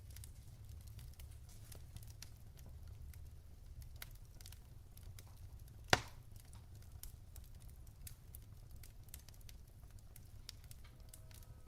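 Wood fire crackling in a fireplace: scattered small snaps over a low steady rumble, with one loud pop about six seconds in.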